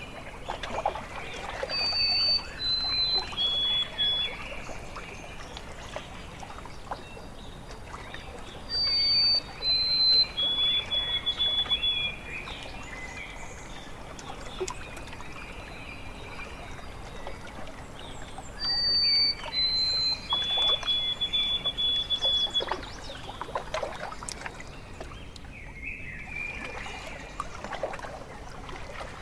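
A songbird repeats a short song of clear whistled notes that step down in pitch, three times at intervals of about eight to ten seconds, with a shorter call near the end. Small waves lap and trickle at the shore underneath.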